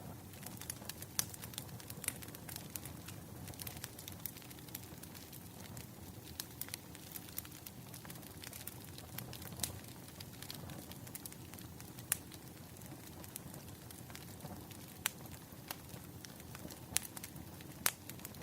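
Wood fire crackling: a steady low rumble of burning with irregular sharp pops and snaps, a few much louder than the rest.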